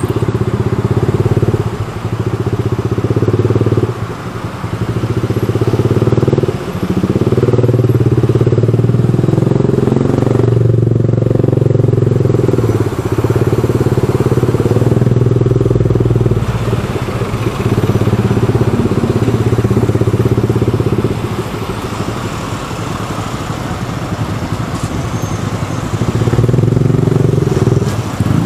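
Motorcycle engine running close by, heard from the rider's seat, its note rising and falling with the throttle while weaving through slow traffic, easing off to a quieter stretch for a few seconds about two-thirds of the way through.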